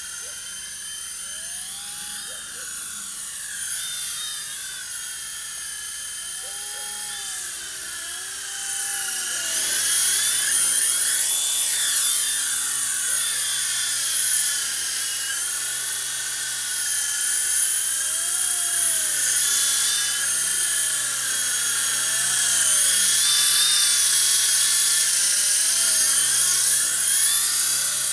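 Small electric RC helicopter in flight: a high motor-and-rotor whine whose pitch keeps rising and falling as the throttle and position change, getting louder about a third of the way in.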